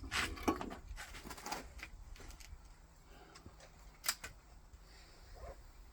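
Rifle handling between shots: a quick run of small metallic clicks and knocks, then a single sharp click about four seconds in, typical of working the bolt of a .22 LR rimfire rifle.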